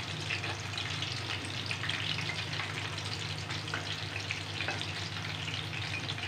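Chicken pieces in a cornflour-and-spice coating deep-frying in hot oil in a pan: a steady sizzle with many small crackles and pops.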